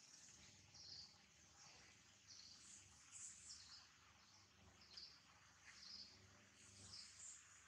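Quiet background with faint, short, high-pitched chirps of small birds, repeating irregularly about once a second.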